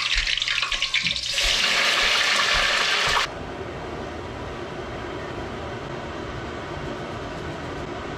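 French fries sizzling in a pot of hot peanut oil: a loud, dense hiss as they go in, which drops suddenly about three seconds in to a quieter, steady sizzle as they fry.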